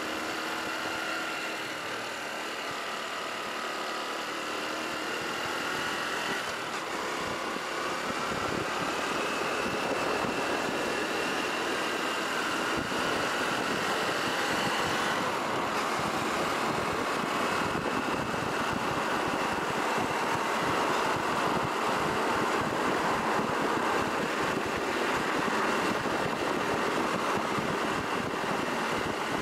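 Honda Cross Cub 110's small single-cylinder engine under way, its note rising slowly as the bike gathers speed. Wind and road noise grow louder from about eight seconds in and then hold steady.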